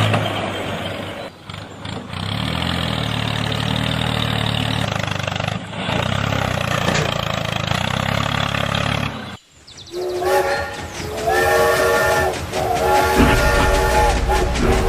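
A motor vehicle's engine running steadily that cuts off abruptly at about nine seconds. Then a multi-tone horn sounds in several blasts about a second long each.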